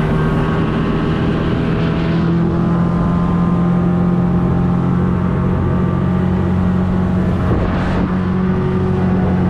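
A boat's engine running steadily at constant speed while the boat is underway, its pitch holding level throughout.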